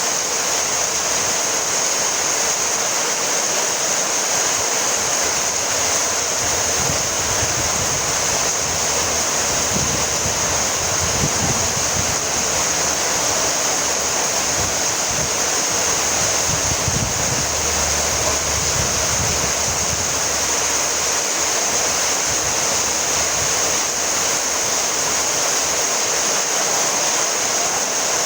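Steady rainfall, an even hiss of rain with no single event standing out, and a faint low rumble coming and going in the middle.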